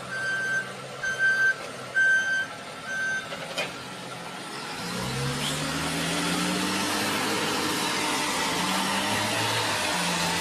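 Reversing alarm beeping four times, a bit under a second apart, then stopping. About halfway through a heavy vehicle's engine pulls away, its pitch rising and falling as it accelerates.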